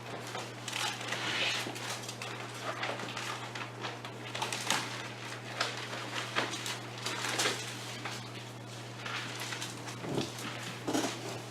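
Bible pages being turned and rustled as people look up a passage: scattered soft paper rustles and small clicks, over a steady low electrical hum.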